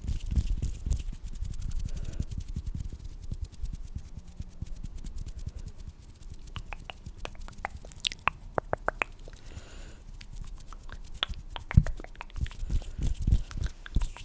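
Close-miked ASMR mouth and hand sounds: scattered wet clicks and smacks over soft low thumps and rubbing, with a quick run of clicks about seven to nine seconds in.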